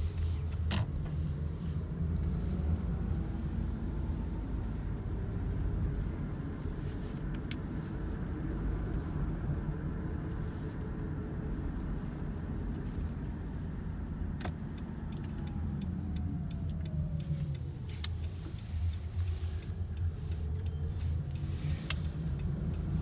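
In-cabin sound of a 2007 Toyota Camry Hybrid on the road: a steady low tyre and road rumble, with a faint whine from the hybrid drive that rises in pitch as the car speeds up a few seconds in and falls as it slows down past the middle. A few light clicks are heard.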